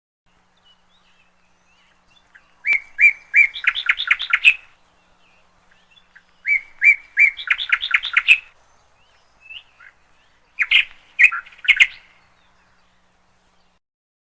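A songbird singing three short phrases, each a few separate chirps that run into a quick series of notes.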